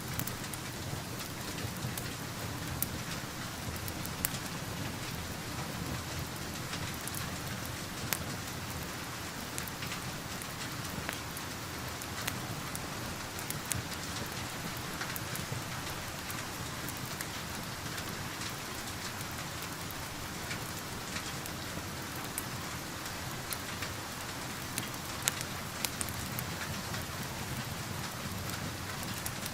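Steady rain, heard from indoors, with the occasional sharp crackle of a wood fire in a fireplace.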